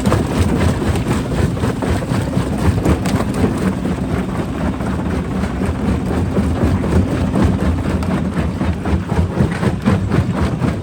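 Heavy rock-crushing machinery running: a loud, steady low rumble with a dense, irregular clatter of rocks cracking and knocking.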